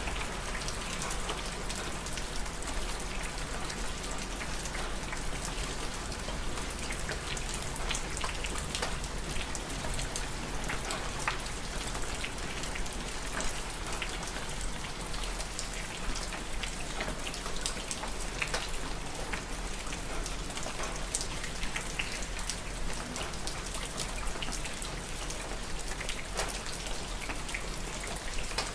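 Steady rain falling on a surface, a constant hiss dense with individual drop ticks.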